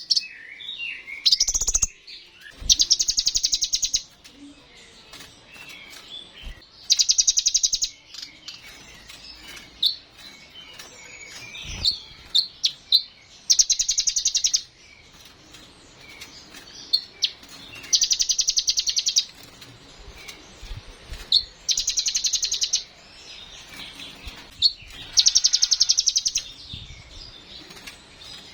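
Kolibri ninja (a sunbird) singing: a fast, high trill of over a second, repeated about every four to five seconds, with short chirps and twitters between the trills.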